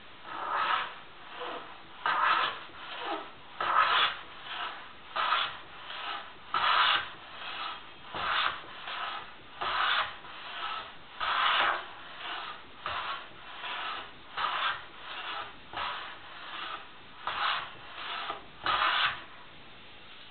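A tuned-up hand plane taking repeated strokes along a wooden board, each stroke a rasping swish of the blade shaving the wood, about one and a half a second, stopping about a second before the end.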